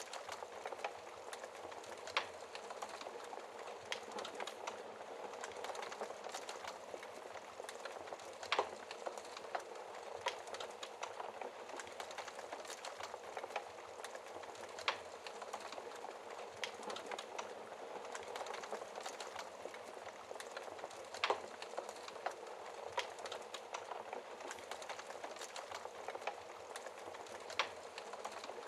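Logs burning in a fireplace, crackling: a steady hiss full of small snaps, with a sharper pop about every six seconds.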